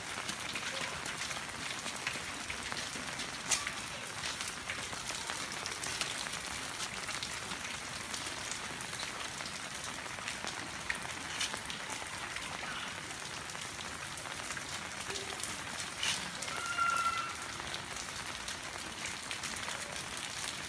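Steady rain falling, a high hiss with scattered taps of drops striking surfaces. A brief high-pitched tone sounds about three-quarters of the way through.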